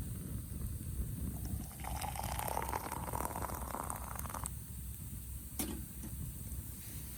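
Liquid being poured into a container for about two and a half seconds, the pitch rising slightly as it fills, followed by a single sharp click.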